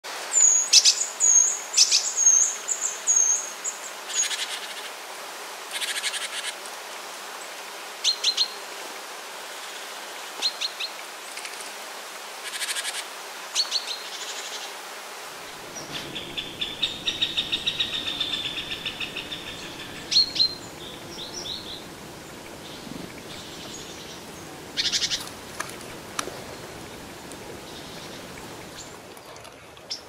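Woodland birds calling: a quick run of high chirps in the first few seconds, then scattered short calls, and a rapid trill lasting about three seconds a little past the middle.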